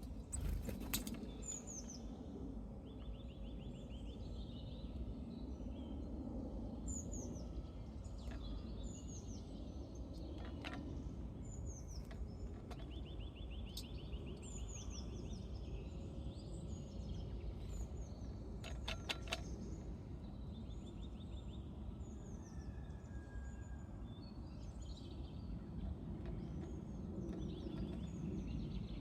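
Small birds calling outdoors: repeated high, downward-slurred notes and several short buzzy trills, over a steady low background rumble. A few short runs of sharp taps, the clearest about two-thirds of the way in, a quick series of four.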